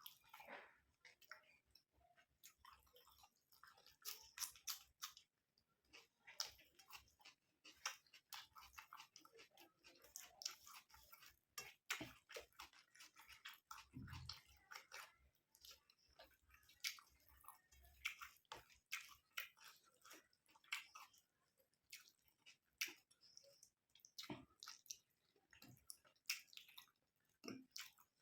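Close-miked chewing of curry and rice: quiet, irregular wet mouth clicks and smacks, a few to several a second.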